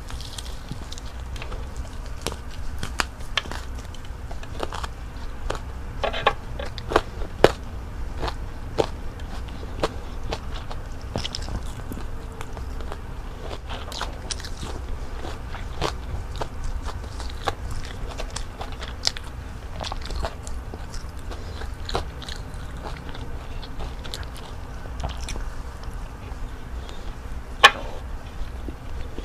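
Close-up biting and chewing of fried breaded calamari and fried salmon with rice: scattered sharp crunches and mouth clicks, the loudest about seven seconds in and near the end, over a faint low hum.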